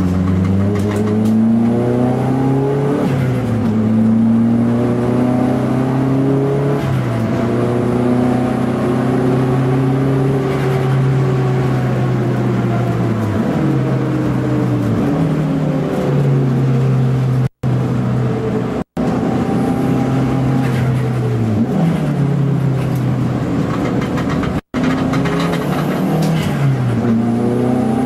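Toyota Starlet EP82 GT Turbo's 1.3-litre turbocharged four-cylinder engine heard from inside the cabin while being driven hard on a race track, revs climbing and falling again and again with the gear changes. The sound cuts out for an instant three times in the second half.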